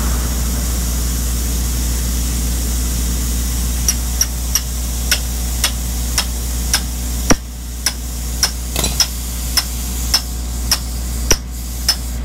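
A vehicle engine idling steadily; about four seconds in, sharp blows on wood begin, roughly two a second, as someone works a piece of timber by hand.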